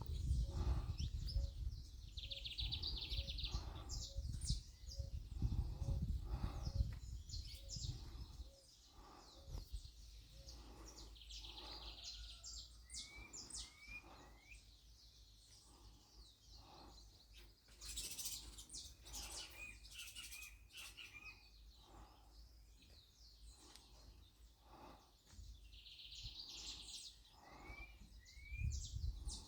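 Small birds chirping: many short, high calls in quick runs, with a few brief rising notes. A low rumble, like wind or handling noise on the microphone, runs under the first eight seconds or so.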